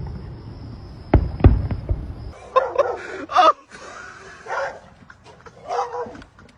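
A few sharp knocks, then a dog giving several short calls over the next few seconds.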